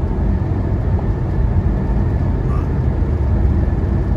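Semi truck cab interior while driving at highway speed: a steady, loud low rumble of diesel engine and road noise.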